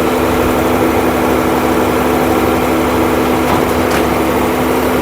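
Heavy construction vehicle's engine running steadily at constant speed, an even hum that holds one pitch.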